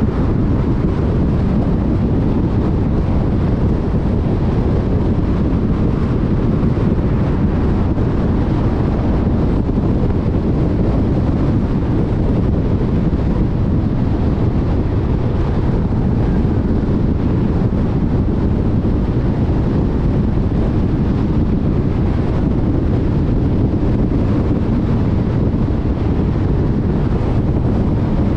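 Steady road noise of a car travelling at freeway speed: tyre roar and wind noise, even and unchanging.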